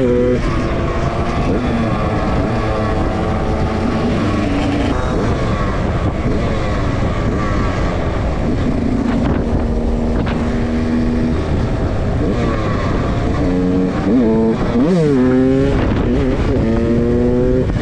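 Motorcycle engines running on the move, their pitch holding and then shifting with throttle and gear changes. About fifteen seconds in there is a quick run of rising revs, each one climbing and then dropping.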